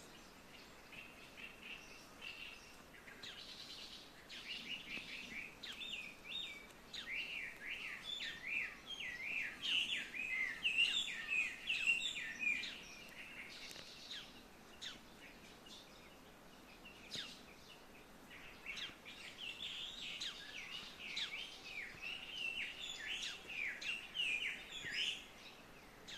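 Several small songbirds singing at once, their rapid chirps and trills overlapping as if competing. The song swells in two busy spells with a thinner stretch between them.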